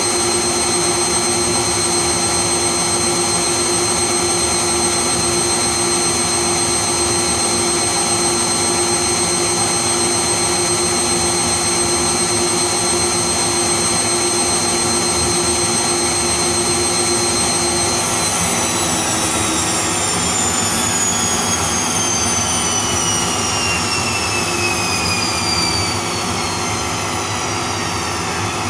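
Bosch Serie 2 VarioPerfect washing machine spinning its drum with a steady high motor whine. About two-thirds of the way through, the whine starts falling in pitch as the drum slows down at the end of the spin.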